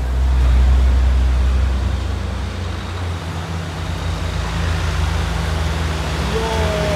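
A heavy truck's diesel engine running close by, a deep steady rumble with road noise over it, loudest in the first second or so.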